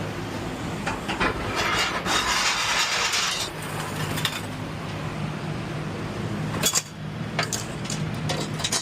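Metal clinks and a rattle, then several sharp clicks near the end, over a steady low hum.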